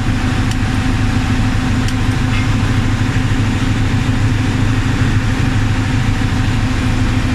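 Engine of a rail welding machine's power unit running steadily at an even speed, with a couple of faint clicks in the first two seconds.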